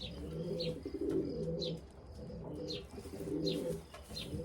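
Racing pigeons cooing in a loft: several overlapping low coos, with short high chirps about once a second.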